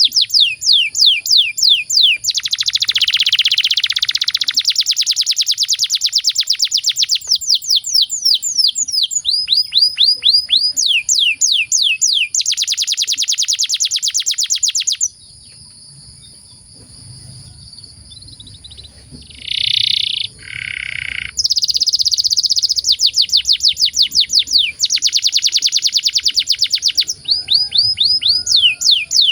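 Domestic canary singing a long song of rapid trills: runs of fast repeated falling notes and dense rolls, broken by a pause of several seconds with two short separate notes before the trilling resumes.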